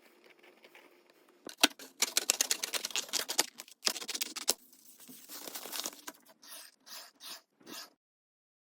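Stiff paper crackling and scraping as it is handled or worked: a dense run of rapid clicks and rustles, then four short separate scrapes near the end before it stops.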